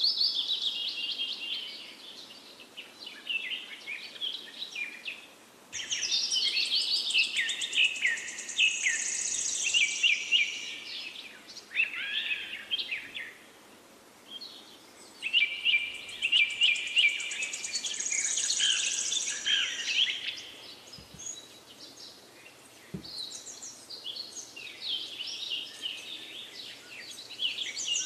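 Birdsong: several small birds chirping and trilling in quick, overlapping phrases that swell and fade in waves every few seconds.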